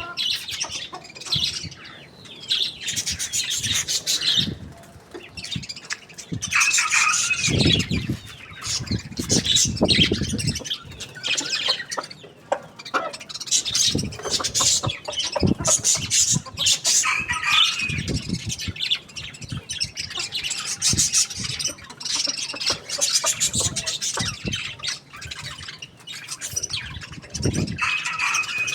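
Chickens squawking in short calls, three louder ones spread through, amid many sharp clicks and flutters.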